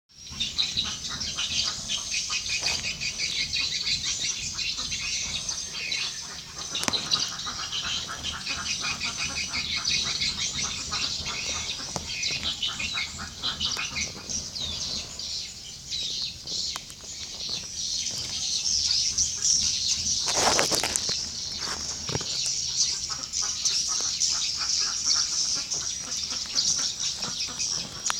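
Edible-nest swiftlets twittering, a dense and continuous chorus of high chirps with no let-up. There is a brief noisy rustle about two-thirds of the way through.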